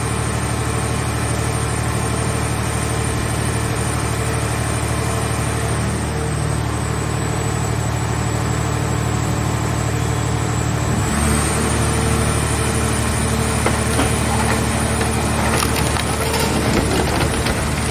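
Hydraulic scrap car baler running with a steady drone. About eleven seconds in, its tone shifts and the press starts crushing a car body, with crackling and snapping of metal that grows toward the end.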